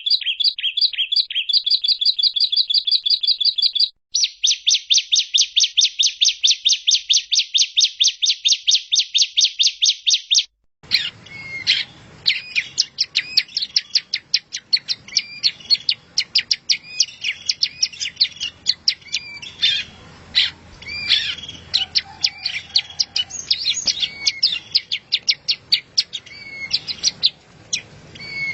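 Songbird recordings edited together as a masteran: a fast, evenly repeated high note series, about nine notes a second, in two runs with a short break. About eleven seconds in it cuts abruptly to a different recording of varied, irregular chirps over background hiss.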